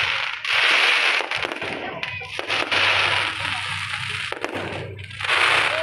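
Aerial fireworks going off: dense rapid crackling with sharp pops, coming in loud surges about a second in, around three seconds in and again near the end.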